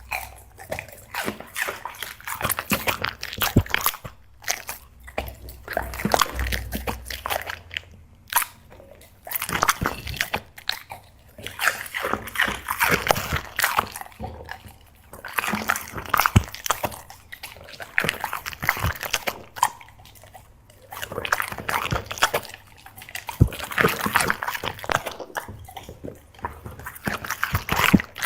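A black Labrador chewing and crunching crisp fish snacks and squid strips, in bouts of rapid crackly crunches a few seconds long with short pauses between them.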